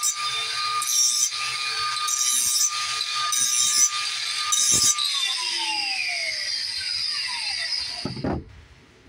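Power grinder running with a steady whine while a steel mower blade is pressed against it in rough grinding passes about once a second, sharpening the edge. About five seconds in it is switched off and the whine falls in pitch as it spins down, ending with a knock.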